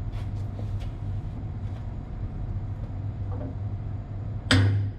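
A single sharp metal knock with a short ring, about four and a half seconds in, as a motor is tapped across its base to bring it into alignment. It sounds over a steady low hum and a few faint ticks.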